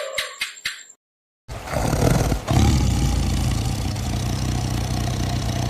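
A short jingling rattle of even strokes, then after a brief gap a loud, continuous big-cat roar and growl, deep and rough.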